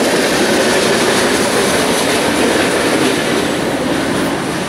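Freight train of boxcars rolling past at close range, its steel wheels running steadily on the rails, fading slightly near the end as the rear cars draw away.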